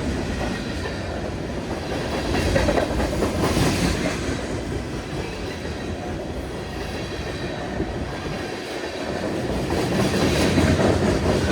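Freight train cars rolling past at about 32 mph: a continuous rumble with the wheels clicking over the rail joints.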